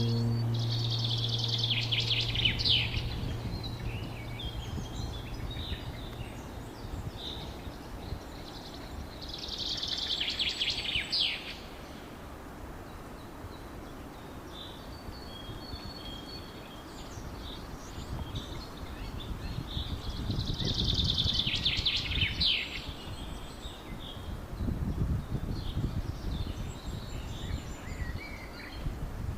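A songbird singing three loud phrases about ten seconds apart, each a couple of seconds long and ending in a quick falling flourish, with fainter bird calls between them. A steady low outdoor noise runs underneath.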